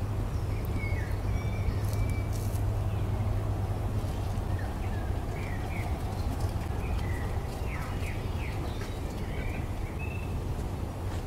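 Small birds chirping and tweeting in short, scattered calls over a steady low rumble.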